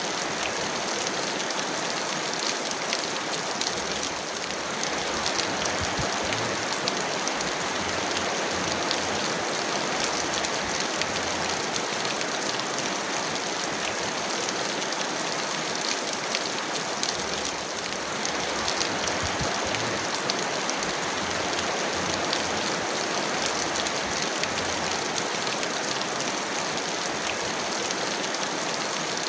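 Heavy rain falling steadily: a dense, even hiss with many small drop ticks, and no thunder.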